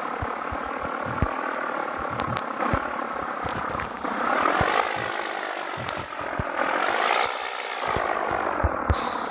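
Scania 113 truck's 11-litre straight-six diesel engine pulling under load. Its pitch climbs about four seconds in, drops around six seconds, then climbs again, like revving up through a gear change.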